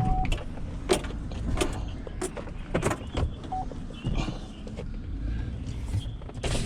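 Vehicle engine running with a steady low rumble, with a scatter of sharp clicks and knocks over it.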